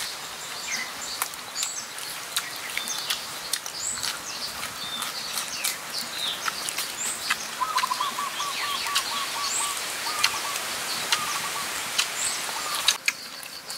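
Birds chirping and calling over a steady high hiss, with a fast run of repeated notes about halfway through and scattered sharp clicks throughout.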